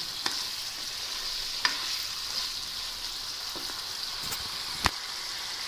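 Chicken in thick masala sizzling in a nonstick kadai as a spatula stirs it, the cooking water fully dried off so it fries in the oil. A few sharp taps of the spatula on the pan, the loudest near the end.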